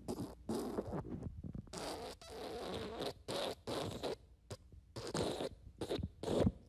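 Fart sound effects: a quick string of raspy, sputtering blasts, mostly short, with a longer one lasting about a second near the middle.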